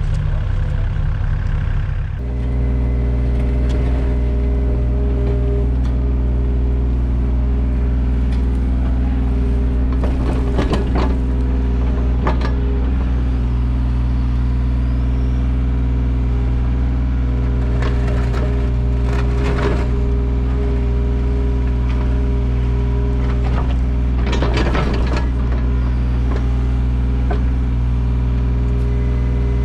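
Mini excavator's diesel engine running steadily, its note changing about two seconds in, with several short scrapes and knocks from the machine at work.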